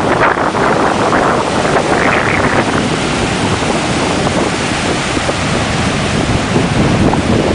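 Heavy surf from an approaching hurricane breaking and washing into a rocky cove, in a loud continuous rush that swells and eases, with strong wind buffeting the microphone.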